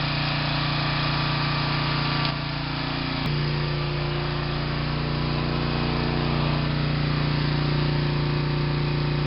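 Portable generator's small engine running steadily, a constant hum over a hiss of rain.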